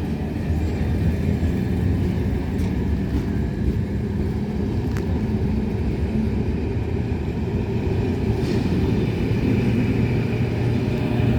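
Class 73 electro-diesel locomotive's engine running steadily as the locomotive pulls away.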